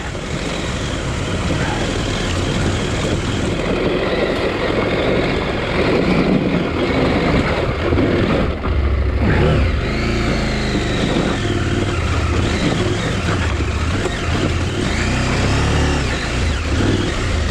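KTM 890 Adventure R's parallel-twin engine working under load up a hill, the revs rising and falling again and again as the throttle is worked.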